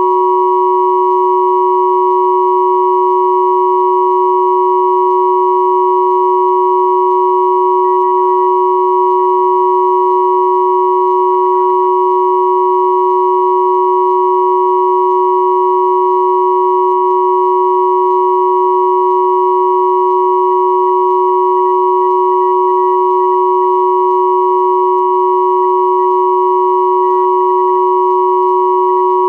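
Steady electronic pure tones at 369, 963 and 1111 Hz sounding together as one unchanging chord-like hum, with no rise, fall or break.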